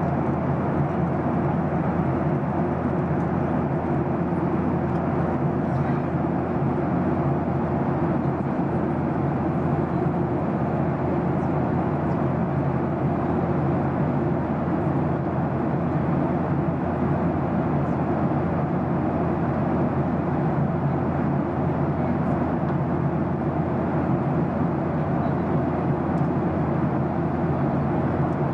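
Jet airliner cabin noise in flight: the steady, even rush of engines and airflow, heard from a window seat.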